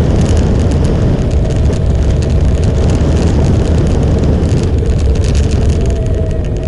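Motorcycle on the move: the engine runs steadily under heavy wind rumble on the microphone, its faint tone shifting slightly in pitch near the end.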